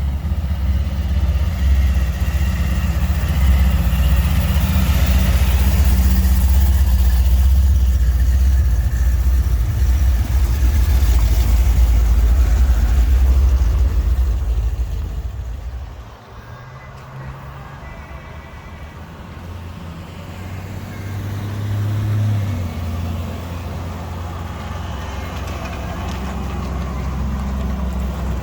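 A motor vehicle's engine rumbling steadily, dropping off abruptly about halfway through to a quieter running sound.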